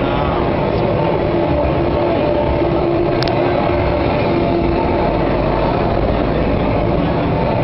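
Blue Bird school bus on the move: steady engine drone and road noise. A brief sharp click about three seconds in.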